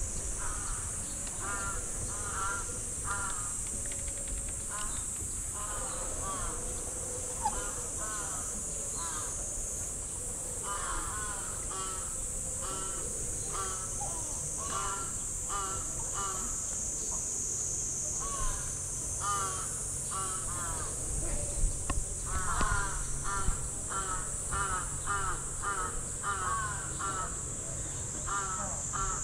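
Birds calling in quick series of short, harsh repeated notes, over a steady high buzzing of insects.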